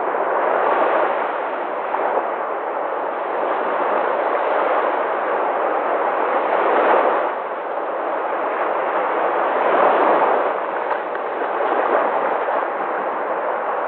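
Sea waves: a continuous rush of surf that swells and eases every few seconds, loudest about seven and ten seconds in.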